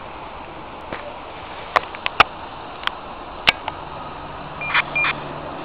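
A run of sharp clicks and knocks, then two short high beeps, over steady background noise around an ATR 72 waiting to take off. A low steady hum sets in a little past halfway.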